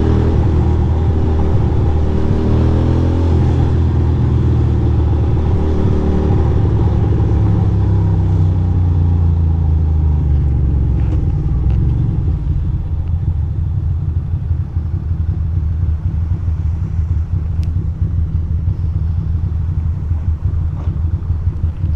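2006 Ducati Monster 620's air-cooled L-twin engine running under the rider. Its pitch rises and falls as it pulls away and shifts for roughly the first ten seconds, then it settles into a steadier low rumble.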